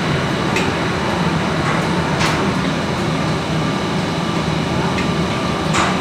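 Steady mechanical rumble with a low hum, broken by a few light clicks, about half a second in, around two seconds in and near the end.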